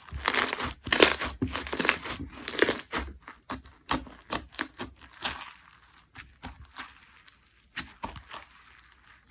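Semi-crunchy micro-foam slime being squeezed and pressed, crackling crisply. The crackles come thick and fast for the first three seconds or so, then grow sparser and thin out toward the end.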